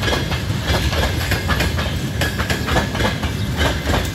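Passenger coaches of a train rolling past. There is a steady rumble, and the wheels clatter over the rail joints in repeated clicks.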